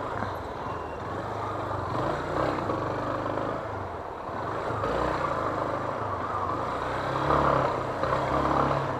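Yamaha Fazer 250 single-cylinder motorcycle engine running at low speed in slow, congested city traffic, with the engines of surrounding cars and trucks mixed in.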